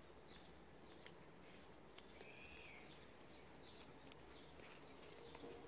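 Near silence: quiet outdoor ambience with faint, scattered bird chirps and one short arching call about two seconds in.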